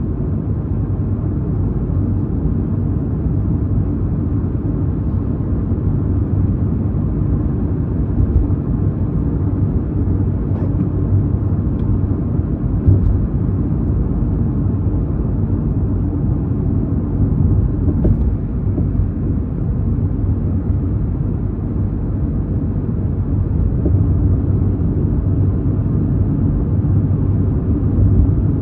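Steady low rumble of a car on the move, engine and tyre noise heard from inside the cabin, with a few faint clicks in the middle.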